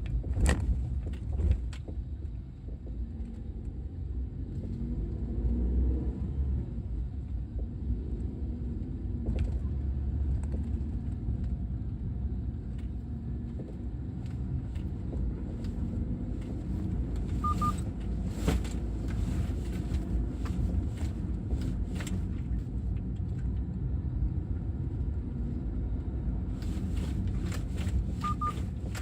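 Steady road rumble inside a 2012 Chevrolet Spark driving over uneven road, with scattered sharp knocks, several near the start and a run of them near the end. The owner traced the knocking to the rear seat folding lever rattling on bumps.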